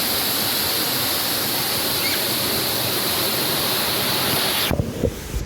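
Waterfall rushing steadily. The water sound cuts off abruptly near the end, followed by a few brief low thumps.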